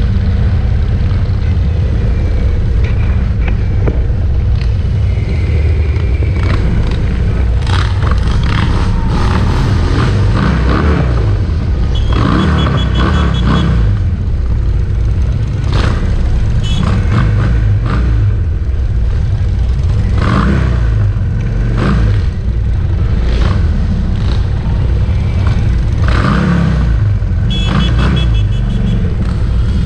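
Many motorcycle engines running in a mass ride, a loud steady low drone with repeated short revs and pops throughout.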